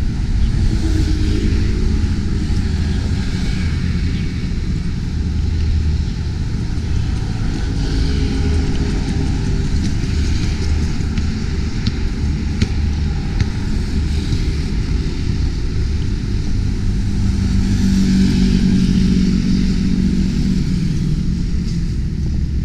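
Steady low outdoor rumble, strongest in the deep bass, with no distinct events.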